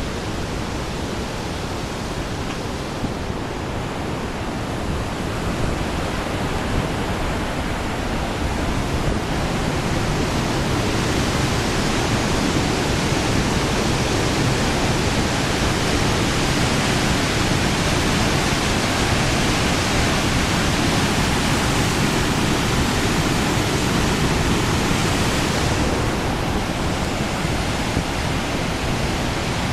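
River water rushing through the open gates of a river weir's headworks, running high after typhoon rain: a steady, heavy roar. It grows louder and brighter about ten seconds in and dulls a little near the end.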